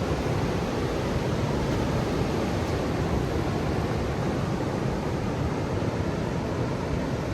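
Steady rush of Indian Ocean surf, an even roar in which no single wave break stands out.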